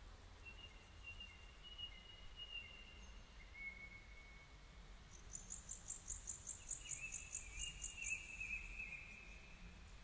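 Faint high, thin bird calls: long drawn-out whistles, joined about five seconds in by a rapid, evenly pulsed high chirping trill that lasts about four seconds. The doves themselves are not cooing.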